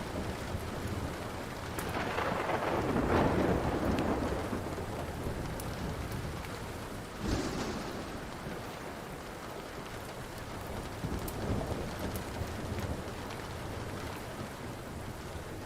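Steady rain with thunder rumbling, swelling about two seconds in, and a sharp crack about seven seconds in. A wood fire crackles faintly throughout with small pops.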